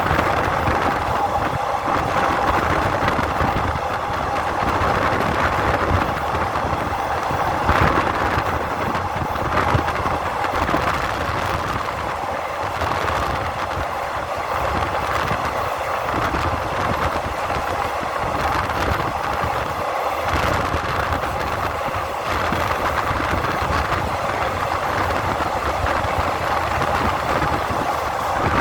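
Steady engine noise running at an even level, with a faint steady whine in the first few seconds.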